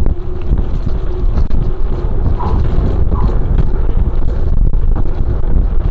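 Heavy wind buffeting on a bike-mounted microphone during a fast mountain bike descent, with the bike rattling and clicking over rough trail.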